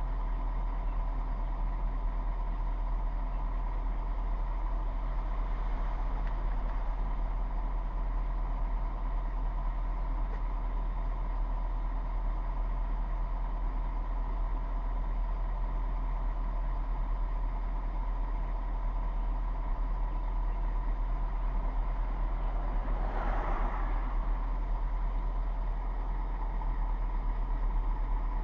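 Truck engine idling steadily, a constant low hum with a few steady tones. A short louder sound rises and fades about 23 seconds in.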